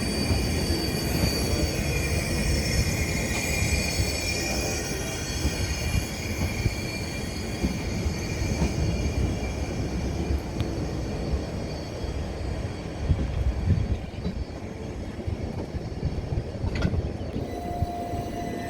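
Southern Class 377 Electrostar electric multiple unit running past on the rails, a steady rumble with high wheel squeal in the first few seconds that then fades.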